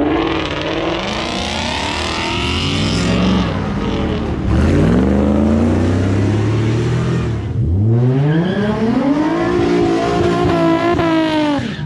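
Car engine revving hard under acceleration, its pitch climbing, dropping sharply twice and climbing again each time.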